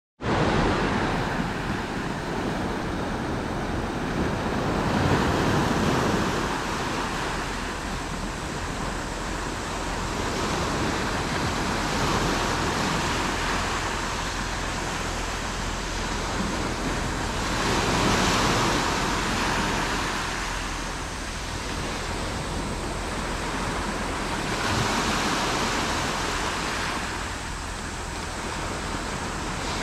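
Surf of somewhat high waves breaking and washing onto the shore, a steady rushing that swells each time a larger wave breaks, every several seconds.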